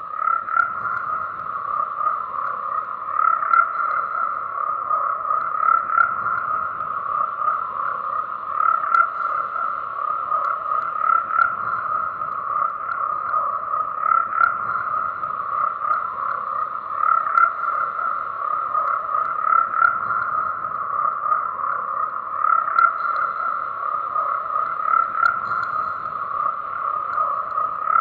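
A dense chorus of frogs calling steadily, many croaks overlapping into a continuous pulsing drone with no breaks.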